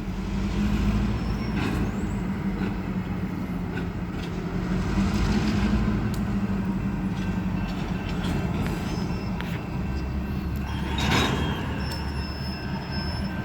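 Diesel locomotive engine running steadily with a low hum as the train shoves cars during switching. About eleven seconds in there is a short burst of noise.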